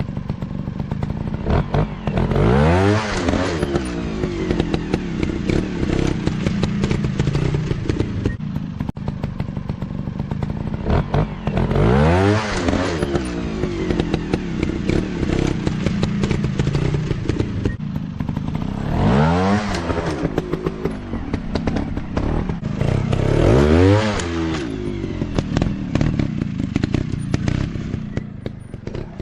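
Off-road dirt bike engine running and revving up hard about four times, the pitch climbing steeply with each rev, with frequent knocks and clatter.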